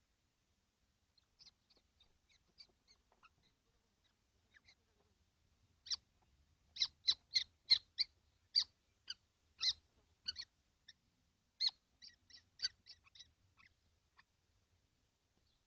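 Young kestrels in a nest box calling: a run of short, high calls, faint at first, loudest from about six to ten seconds in, then thinning out near the end.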